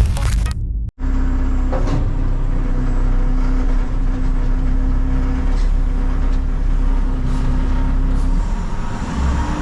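Front-load garbage truck's diesel engine running steadily, heard loud and close from inside the cab, with a low rumble and a steady hum. A brief dropout about a second in, and the engine note rises slightly near the end.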